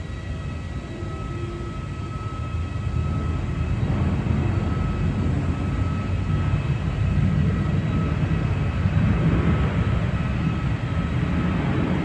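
Boeing 737 jet engines: a steady low rumble with a faint high whine, growing louder about four seconds in and staying loud.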